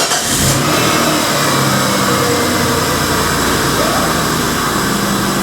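1999 Dodge Avenger's 2.5 L V6 catching about half a second in after cranking, then running steadily at idle. It runs with no misfire so far, its crankshaft position sensor air gap just readjusted.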